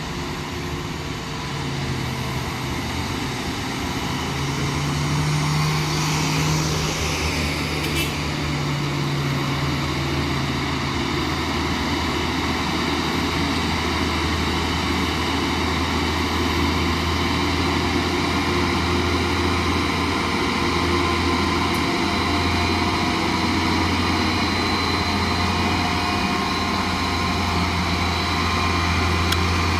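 Heavy truck's diesel engine labouring under load on a steep climb: a steady low drone that grows louder over the first few seconds.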